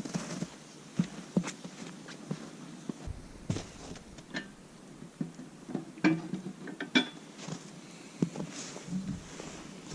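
Irregular clicks and knocks, a few of them light ringing clinks, as objects are handled.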